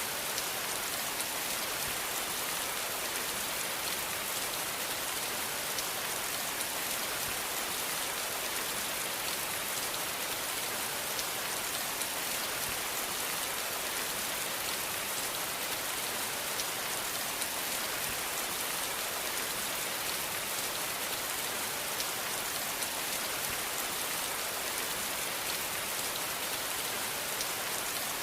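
Steady rain falling, a dense even hiss of drops with fine scattered patter, without change.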